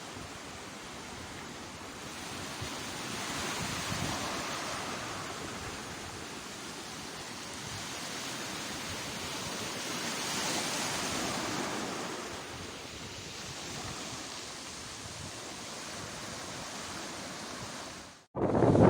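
Sea surf washing in, a steady rushing noise that swells twice, about four and about ten seconds in, and cuts off abruptly near the end.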